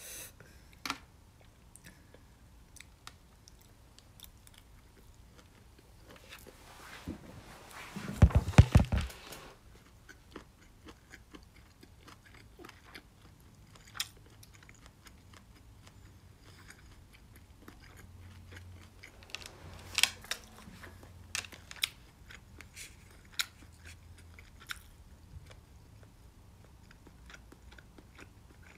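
A person chewing and biting food close to a phone microphone, with scattered sharp clicks of chopsticks against a plastic takeout tray. About eight seconds in there is a louder run of low thuds.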